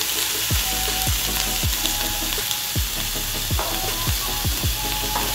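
Wet tomato, ginger and garlic paste sizzling steadily as it fries in hot oil with browned onions. Background music with a beat of low, falling thumps plays under it.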